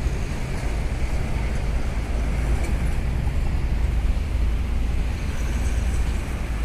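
Hino truck's diesel engine running steadily with a low rumble.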